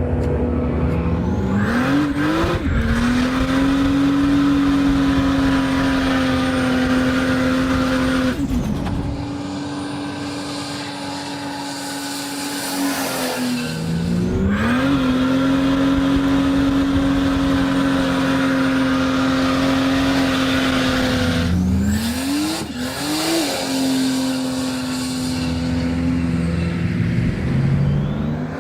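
Turbocharged Ford Barra 4.0 litre straight-six revving up quickly and held at high revs for several seconds, with a high turbo whine, then easing off. The cycle comes three times, with the revs climbing about two, fourteen and twenty-two seconds in.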